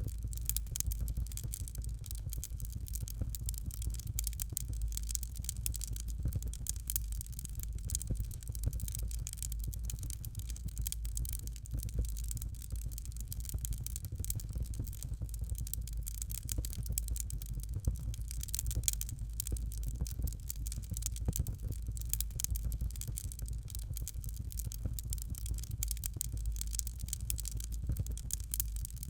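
Fireplace fire crackling, with a constant patter of small pops and ticks over a steady low rumble.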